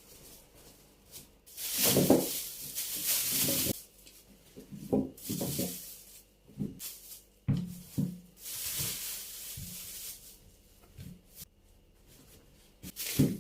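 Household handling noises: three stretches of rustling with scattered light knocks and taps, and one sharper knock near the end.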